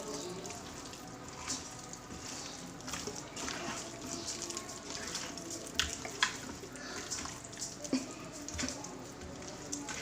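Raw chicken pieces being mixed in a wet marinade of lemon juice, ginger-garlic paste and spice mix: uneven wet squelching and sloshing, with a few sharp clicks about six and eight seconds in.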